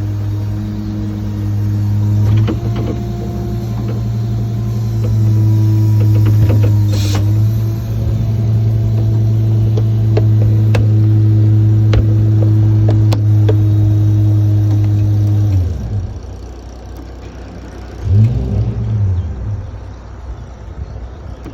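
Ford bucket truck's PTO-driven hydraulic system working the boom: a loud, steady hum with scattered clicks and knocks. It cuts off sharply about three-quarters of the way through, and a brief rising-and-falling sound follows near the end.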